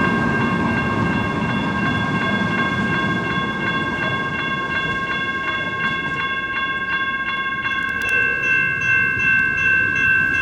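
Grade-crossing warning bells ringing fast and steadily over the rumble of a passing light rail train.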